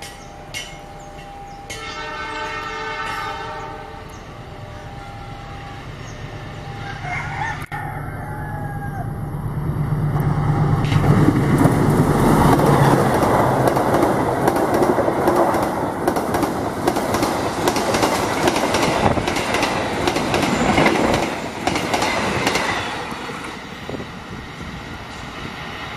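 Diesel locomotive hauling a passenger train at speed: a horn blast about two seconds in, the engine's drone building as it approaches, then a loud pass-by with the wheels clattering over the rail joints, fading near the end as it moves away.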